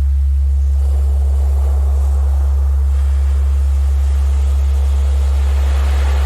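A steady, loud low tone from a Rife-frequency track runs without a break under recorded ocean surf. The waves swell about a second in and again near the end.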